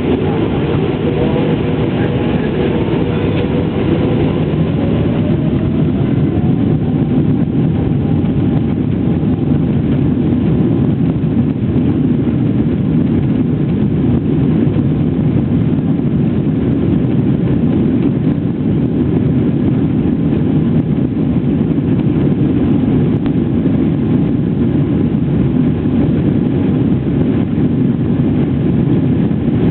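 Boeing 777-300's twin jet engines at takeoff power: a steady roar, with a faint whine rising in pitch over the first several seconds.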